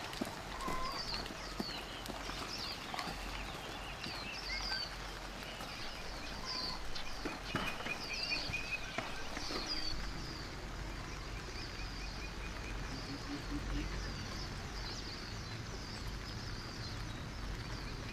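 Heavy rain falling steadily, with a run of short, high chirping calls about once a second through the first half that then fade out.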